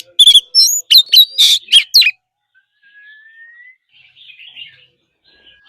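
Oriental magpie-robin singing a burst of loud, rapid, varied whistled notes that stops about two seconds in. Faint distant bird calls and a thin rising whistle follow.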